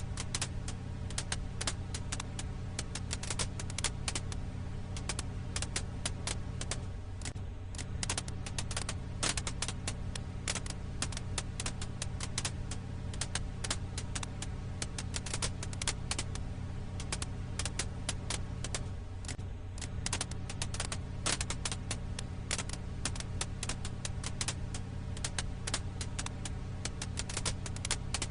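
Firewood crackling in a campfire: dense, irregular snaps and pops over a steady low hum.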